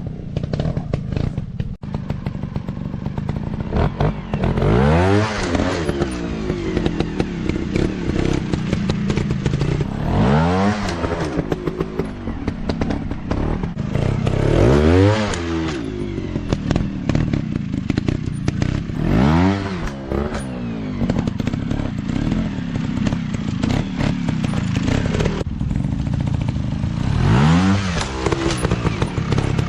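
Dirt bike engine running, revved up and back down five times at intervals of about five seconds.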